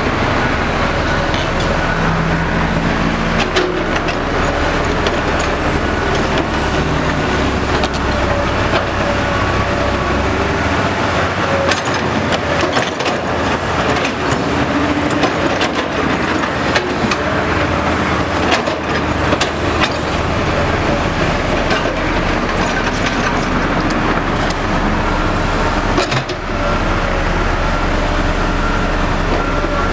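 Heavy construction machinery at work: diesel engines running steadily, with scattered metallic clanks and knocks.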